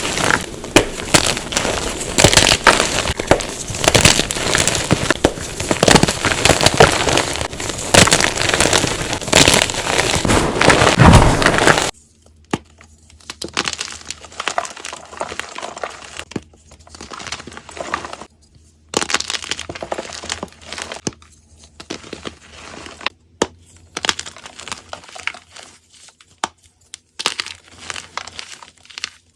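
Gym chalk cubes being crushed: dense, loud crunching and crumbling, then an abrupt change about twelve seconds in to quieter, sparser crunches and crackles with short pauses between them.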